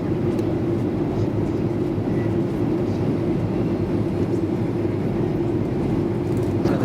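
Steady cabin noise of a Boeing 737-800 in flight: an even drone of engines and rushing air.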